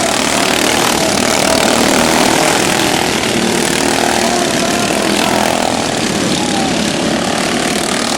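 Several modified racing lawn mower engines running hard at high revs, their pitch wavering up and down as they accelerate and back off.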